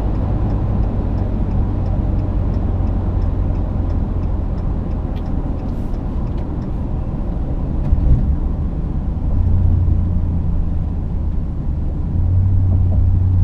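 Exhaust drone from a Ram 2500's 6.4 L Hemi V8 through a Magnaflow cat-back exhaust while driving: a steady low hum over road rumble. It swells louder about nine seconds in and again near the end, with a brief thump just before the first swell.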